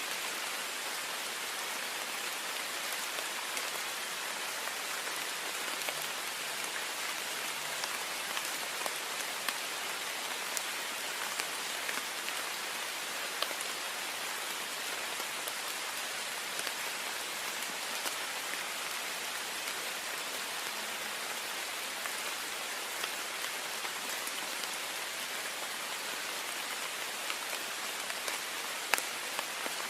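Heavy rain falling steadily on a window pane, an even hiss with scattered sharper drop taps.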